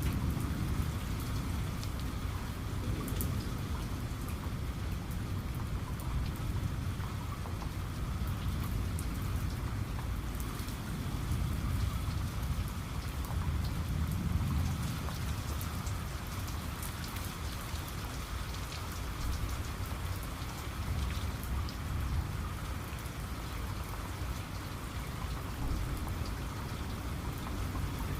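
Steady rain falling, with scattered drops pattering, over a low rumble that swells near the start and again about halfway through.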